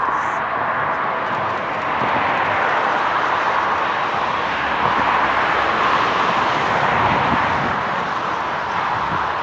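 Twin jet engines of a Boeing 767-200 running, a steady rushing noise that swells gently and eases slightly near the end.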